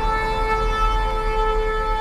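A shofar blast held on one long, steady note.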